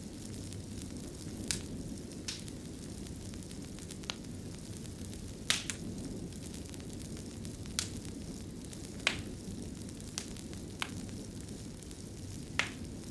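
Wood fire burning in a fireplace: a steady low rumble with about ten sharp crackles and pops at irregular intervals.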